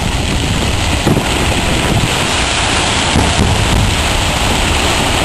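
Fireworks going off: a dense, steady rumble and crackle of many shells, with no single bang standing out.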